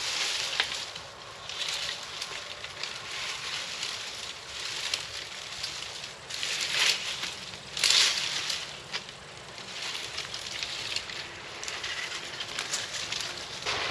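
Brush pile of branches burning in an open fire: steady crackling with many small pops, and louder rushing swells now and then.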